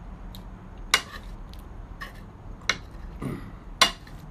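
Tableware clinking: three sharp clicks of dishes or cutlery, about a second apart, the last the loudest.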